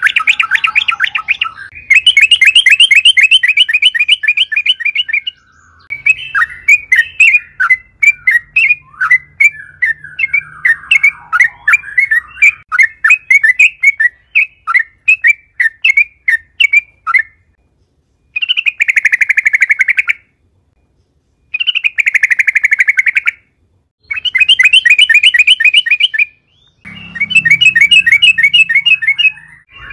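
Yellow-vented bulbul singing in phrases of fast, rolling repeated notes, each phrase a couple of seconds long with short pauses between. In the middle comes a longer run of separate chirps.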